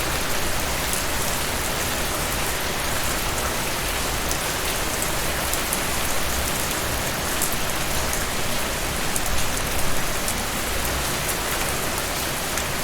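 Steady rain falling, with scattered sharp raindrop hits standing out above the even hiss.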